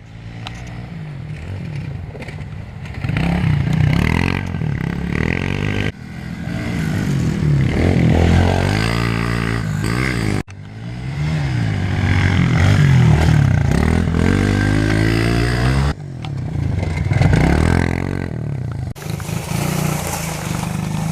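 Pit bike engine revving up and down as the bike is ridden around a dirt track. The pitch rises and falls again and again, with abrupt breaks where separate clips are joined.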